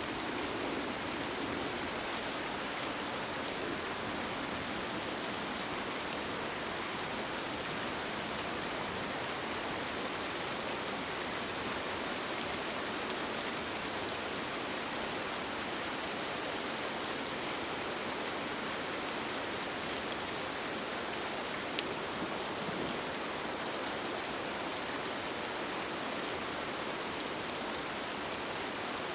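Steady rain falling on a tent, an even hiss with scattered single drops ticking; one drop stands out a little louder about two-thirds of the way through.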